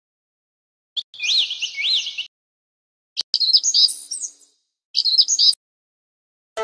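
Bird song in three short phrases separated by dead silence: a run of rising-and-falling whistles about a second in, then two quicker chirping phrases in the second half.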